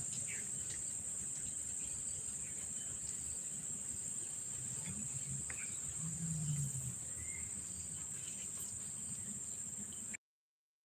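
A steady, high-pitched drone of insects, continuous and unchanging, over faint outdoor background noise. It cuts off abruptly about ten seconds in.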